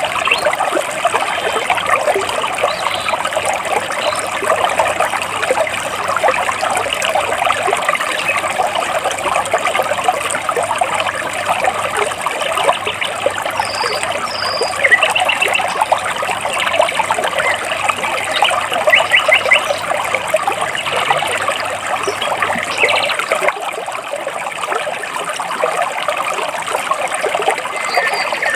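Stream water flowing and splashing between rocks, a steady rush, with a few short bird chirps and quick trills in the middle.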